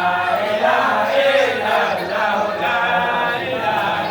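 Group of voices chanting an Islamic praise chant together, unaccompanied, in long held tones.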